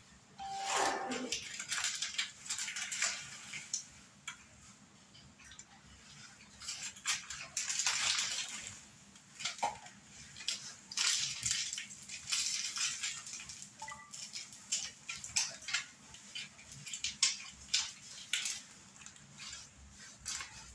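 Irregular clinking, scraping and rustling of cups, a spoon and other tableware being handled, with a short falling squeal about a second in.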